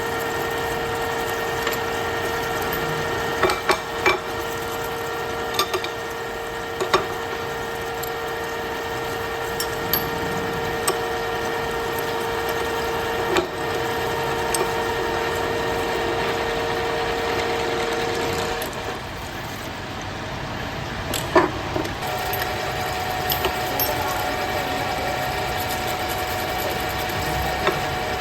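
Workshop machinery running with a steady hum, broken by scattered sharp metal clicks and knocks. The hum cuts out about two-thirds of the way through, and a different steady tone starts a few seconds later.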